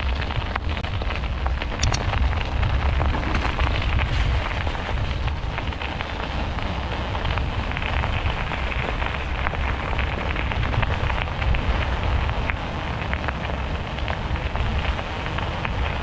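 Wind buffeting the bike-mounted microphone with a low rumble, over a steady crackle of bicycle tyres rolling on a rough surface during a ride.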